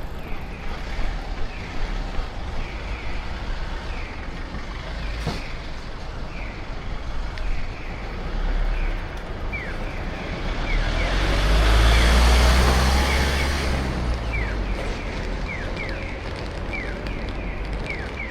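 A road vehicle passes close by, its noise swelling and fading again about ten to fourteen seconds in. Underneath, the runner's footsteps tick steadily about two to three times a second, with wind rumbling on the microphone.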